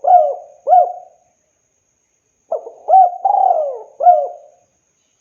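Spotted dove cooing: the last two notes of one phrase, then after a pause of about a second a full phrase of several coos with a long falling note in the middle.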